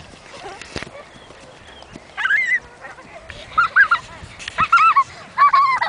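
Birds honking: a series of short calls, each rising and falling in pitch, coming about once a second from about two seconds in.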